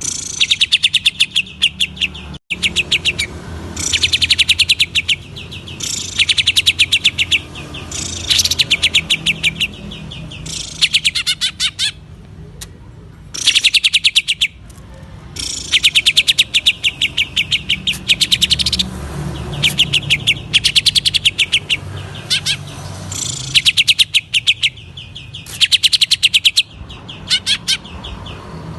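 A cucak ijo (green leafbird) singing in rapid, rattling bursts of one to two seconds each, repeated with short gaps between them. Each burst is a fast run of sharp, high notes.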